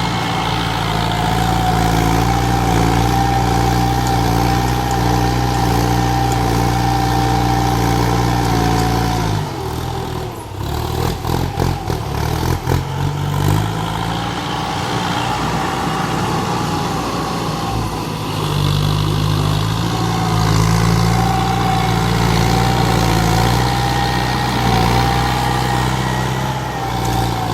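Kubota tractor engine running steadily. About ten seconds in, its note breaks up for a few seconds with sharp knocks and clatter, then it settles back to a steady run.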